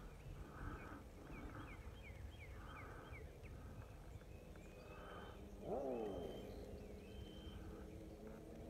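Birds chirping in open country: a quick run of short, high, downward-sweeping chirps, about three a second, then a few short high notes. About six seconds in comes a brief, louder, lower call that falls in pitch.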